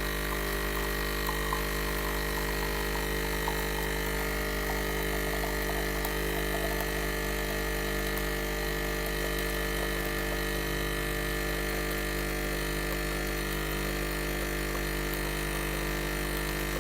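Krups Nespresso capsule machine's pump running with a steady, unchanging buzz as it pushes water through a lungo capsule.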